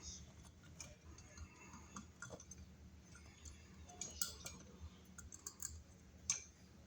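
Faint, scattered clicks and light taps, with sharper clicks about four seconds in and again about six seconds in: small screws, washers and tools being handled at a wall outlet box.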